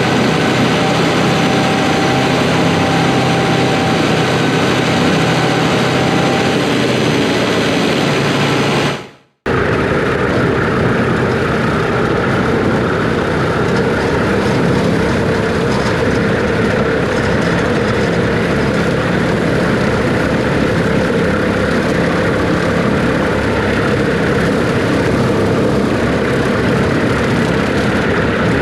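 Farm tractor engine running steadily, cut off abruptly about nine seconds in at an edit and then resuming unchanged.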